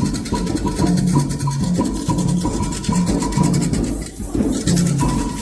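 Candomblé ritual drumming: atabaque hand drums in a steady rhythm, with a repeating high ringing bell stroke and a shaker. The bell pattern drops out briefly about four seconds in, then resumes.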